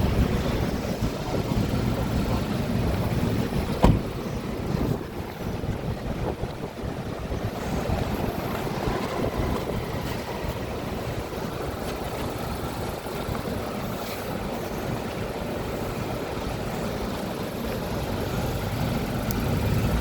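Mazda 3 1.5-litre four-cylinder engine idling steadily, with wind buffeting the microphone. A single sharp click about four seconds in.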